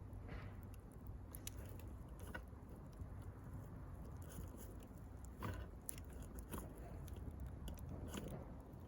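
Wood fire crackling: scattered irregular pops and snaps, the loudest about five and a half seconds in.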